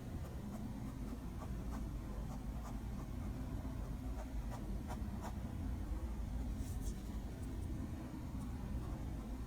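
A drawing tool scratching and tapping lightly on a drawing surface in short, irregular strokes over a steady low hum.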